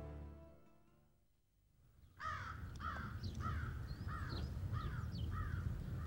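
Background music fading out, then a short silence, then a bird calling in a run of about seven evenly spaced calls, roughly two a second, with fainter chirps from other birds over a rural outdoor background.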